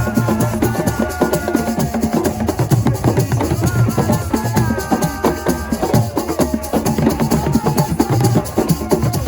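Assiko music: fast, dense drumming and struck percussion in a steady rhythm, with a held melodic line over it.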